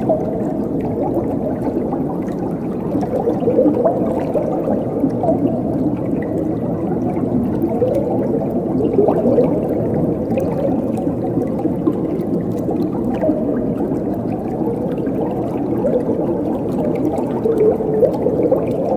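Flowing water running steadily with a low, full babble and gurgle, unchanging throughout.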